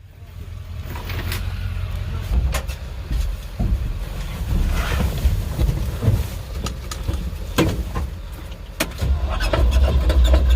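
A motor vehicle's engine running with a low rumble, with scattered clicks and knocks, getting louder near the end.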